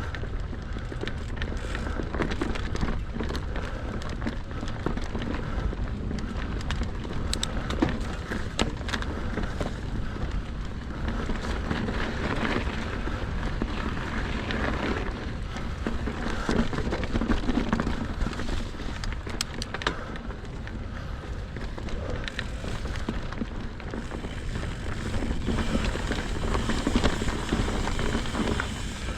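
Mountain bike tyres rolling and crunching over a frozen dirt trail, with the bike rattling over bumps, a few sharp clicks, and a steady low wind rumble on the action camera's microphone.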